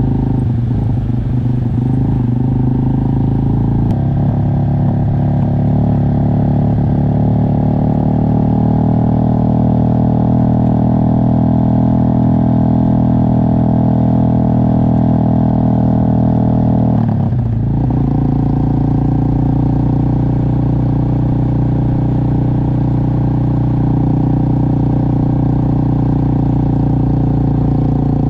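Motorcycle engine running steadily under way, with a brief dip about 17 seconds in before it settles at a slightly different pitch.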